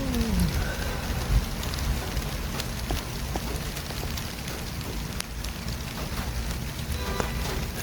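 City street traffic: a steady low rumble and hiss of passing vehicles, with scattered clicks, a falling engine note in the first half-second and a brief pitched tone about seven seconds in.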